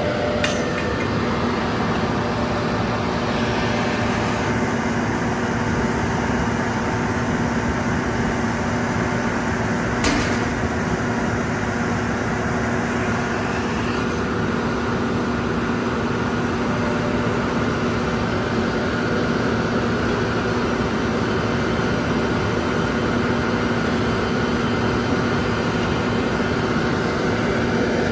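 Caterpillar asphalt paver's diesel engine running steadily, a constant drone with a low hum. Two short clicks come through: one just after the start and one about ten seconds in.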